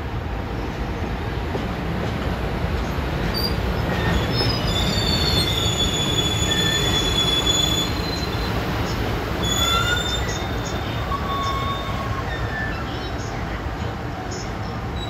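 A JR Freight EF210 electric locomotive and a single Taki 1000 tank car roll slowly in to stop, with a low rumble. Thin metal-on-metal squeals from the running gear come and go at several high pitches, mostly from about four to twelve seconds in.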